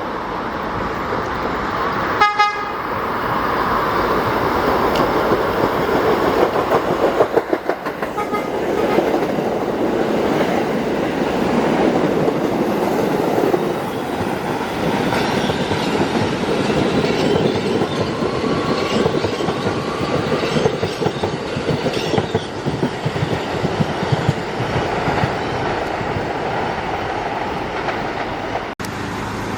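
Staten Island Railway electric train giving a short horn toot about two seconds in, then rumbling along the rails, its wheels clicking rhythmically over rail joints.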